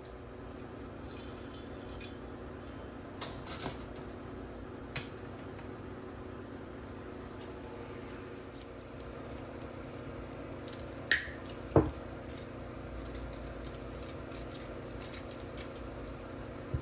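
Light clinks and taps of small hard parts being handled, with two louder knocks close together about eleven seconds in, over a steady low hum.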